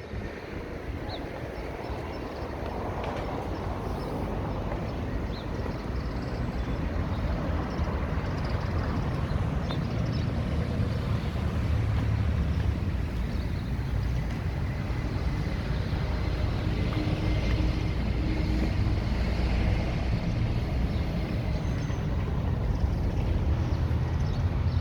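Street traffic: motor-vehicle engine and road noise, a steady low rumble that gradually grows louder.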